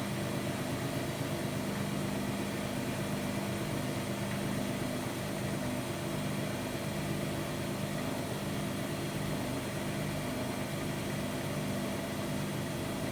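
Hotpoint-Ariston AQD972F 697 washer-dryer running: a steady mechanical hum with several steady low tones and no change in speed.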